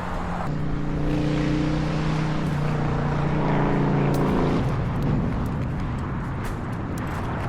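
An engine running at a steady pitch for about four seconds, then dropping away into background noise.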